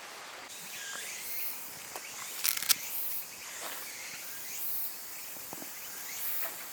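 Insects chirping in woodland, a steady high-pitched background with recurring chirps, and a short clatter of clicks about two and a half seconds in.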